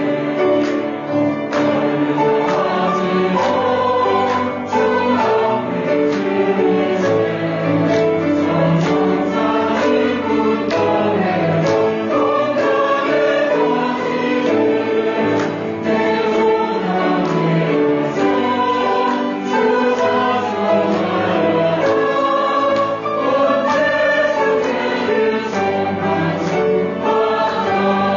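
Church choir singing a hymn, many voices in parts holding sustained notes together.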